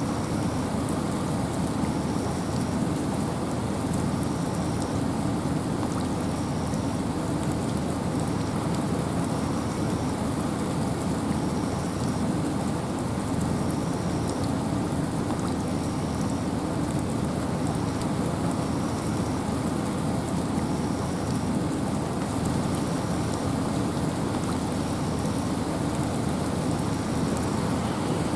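Steady rain falling in a forest, an even rushing hiss that does not let up. A faint high chirp repeats about every two seconds.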